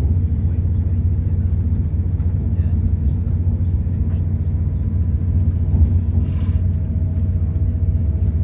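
Passenger train running at speed, a steady low rumble heard from inside the carriage.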